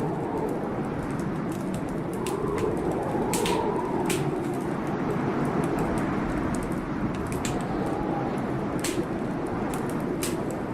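Wood fire in a fireplace crackling, with sharp pops scattered throughout, over the steady rush of a rainstorm.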